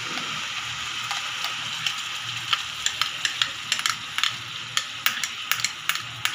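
Tomato paste sizzling as it goes into hot mustard oil with fried onion and spices in a steel frying pan: a steady hiss with frequent sharp crackles, more of them from about two seconds in.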